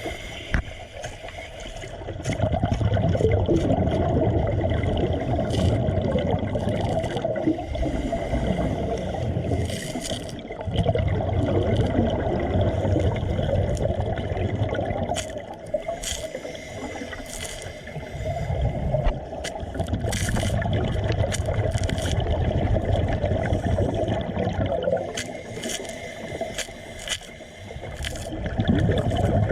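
Water bubbling and gurgling in surges of a few seconds, with scattered short clicks and scrapes.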